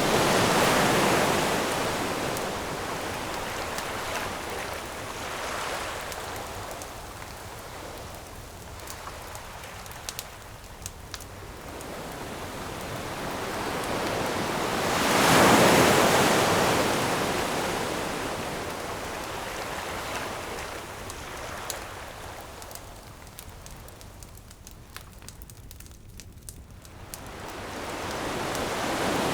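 Ocean waves washing onto a shore, the surf swelling and fading, with two big surges about fourteen seconds apart. In the quiet stretches between them, sharp little pops and crackles of a burning wood campfire.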